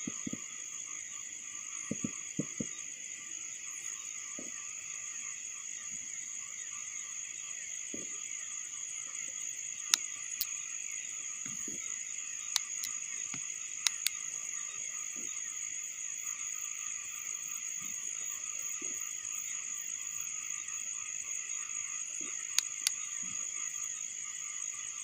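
Steady night chorus of crickets and frogs, a constant high trilling, with a few sharp clicks scattered through it.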